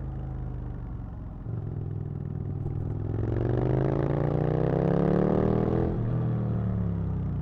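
Aprilia RSV Mille's 60-degree V-twin engine under way, first holding a steady note, then pulling with its pitch rising from about three seconds in. About six seconds in the pitch drops abruptly and the engine falls away.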